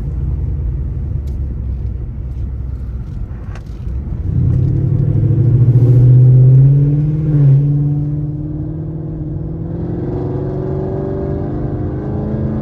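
Chevrolet Camaro SS's V8 engine running low, then accelerating from about four seconds in with a rising note that is loudest a couple of seconds later. The pitch drops about seven seconds in, then climbs slowly again as the car pulls on.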